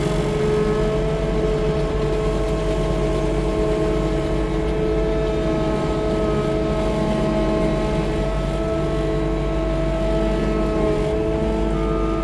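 Tracked skid steer loader running steadily, its engine drone carrying a constant whine.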